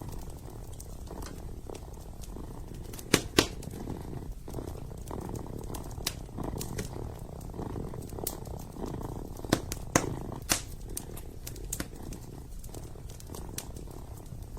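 Kitten purring steadily, with the crackle and sharp pops of a wood fire burning in a fireplace; the loudest pops come about three seconds in and again around ten seconds.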